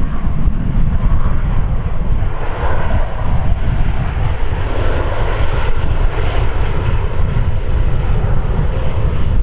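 Airliner's engines running loud as it passes, a steady rushing rumble that swells a little in the middle and then eases.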